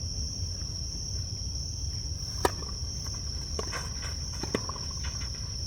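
Insects keep up a steady high-pitched drone. About two and a half seconds in comes a sharp crack of a tennis ball struck by a racket, followed by a few fainter ball or court clicks.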